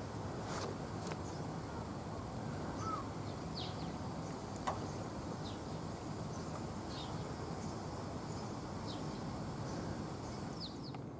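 Outdoor garden ambience: a steady low background rumble with scattered short, high bird chirps every second or so, and a single sharp click about halfway through.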